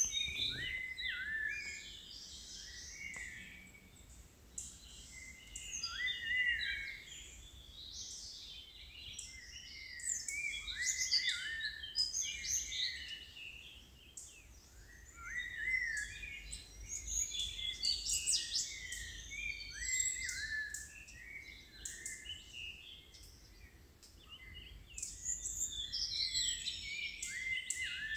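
Forest birds calling: a chorus of short chirps and quick down-slurred whistled notes from several birds, coming in clusters every few seconds.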